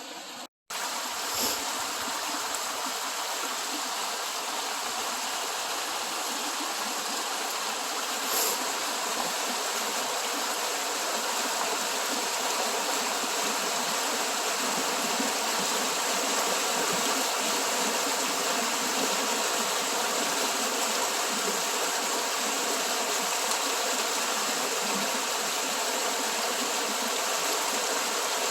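Eklutna River water rushing steadily as released flow runs down the channel. The sound is an even, unbroken rush, cut by a brief dropout less than a second in.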